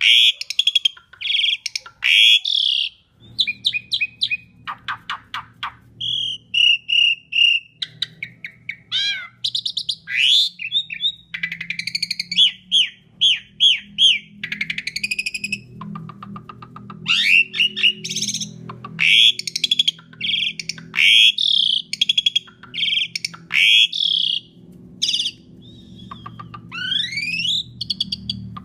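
Asian pied starling singing a loud, fast, varied song: phrase after phrase of whistles, rising and falling sweeps, rapid trills and clicking rattles with only brief pauses. A steady low hum runs underneath from about three seconds in.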